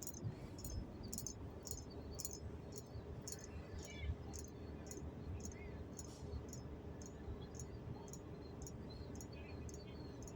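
Regular, evenly spaced clicking, about two clicks a second, over a low steady hum.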